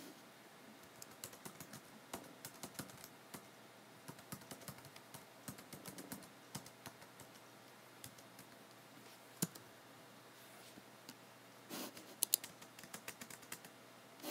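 Typing on a computer keyboard: quick runs of key clicks with pauses between them, one louder single click about nine seconds in, and a faster flurry of keystrokes near the end.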